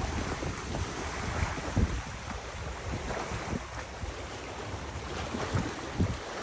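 Gusty wind buffeting the microphone in irregular low thumps over a steady rushing hiss.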